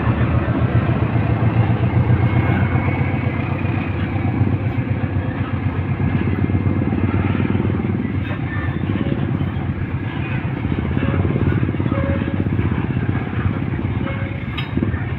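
Freight train passing close by: a loud, steady low rumble of the train rolling past.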